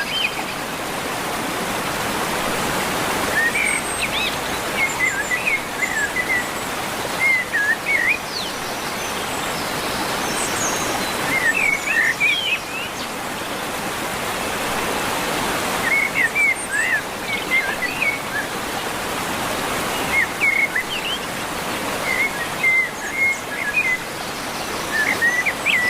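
Birds singing in short chirping phrases, repeated every few seconds, over a steady rushing background hiss.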